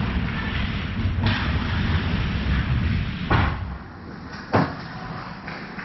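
Ice hockey rink noise: a steady din of play, then two sharp bangs about a second and a quarter apart, the louder first one ending the loudest stretch of the din, like a puck or players hitting the rink's boards.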